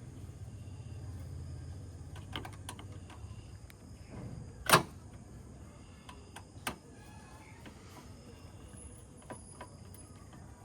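A few knocks and clicks, the loudest a single sharp knock about five seconds in and another about two seconds later. Under them a low hum fades after the first few seconds, and faint steady high tones run throughout.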